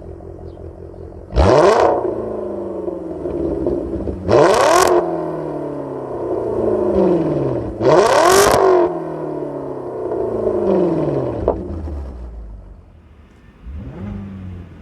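Volkswagen Passat B5's 4.0 W8 engine through a cat-back exhaust with an X-pipe, no centre mufflers and valved rear mufflers, idling and blipped three times, each rev climbing sharply and falling back to idle over about two seconds. Lighter throttle blips follow near the end.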